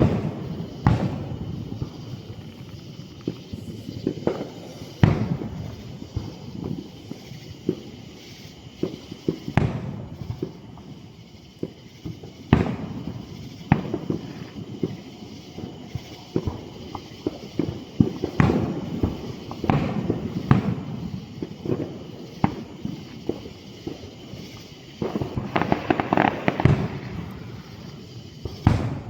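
An aerial fireworks display: about a dozen shell bursts go off as sharp booms with a low rumble between them. A dense cluster of crackling comes about 26 seconds in.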